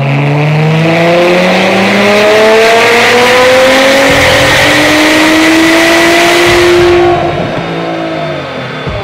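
Nissan GT-R's 3.8-litre twin-turbo V6 under full throttle on a chassis dynamometer, a power run with the engine note climbing steadily in pitch. About seven seconds in it cuts off abruptly as the throttle is lifted and the engine falls back. The car carries a stage 5 tune.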